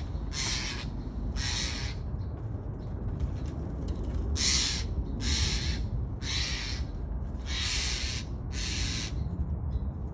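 Jays giving harsh, rasping calls, about seven of them, each roughly half a second long, in irregular bursts.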